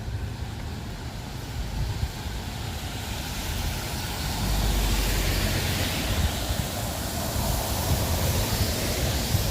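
Tyre hiss of a vehicle on a wet road, building over several seconds as it draws close, with wind rumbling on the microphone.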